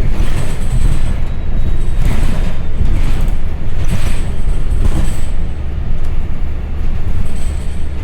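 City transit bus driving, heard from inside the cabin: a steady engine and road rumble, with several brief clatters in the middle.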